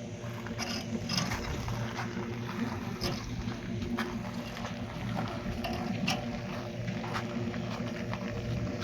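An engine running steadily, with irregular sharp knocks and clicks over it.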